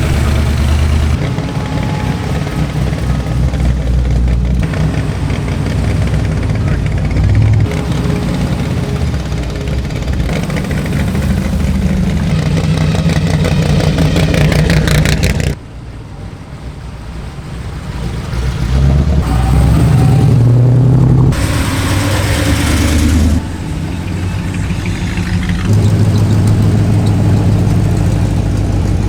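Car engines running at idle and revving. The sound drops off abruptly about halfway through, builds back up, and changes abruptly again later.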